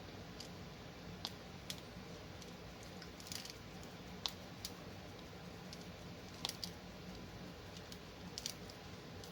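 Light, scattered clicks and taps of a diamond-painting drill pen picking up drills and pressing them onto the canvas, about a dozen over the stretch, some in quick little clusters.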